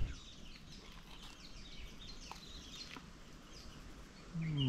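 Small birds chirping in the bush, many short quick calls that slide down in pitch, over a quiet background. Near the end a man's voice gives a short low hum that falls in pitch.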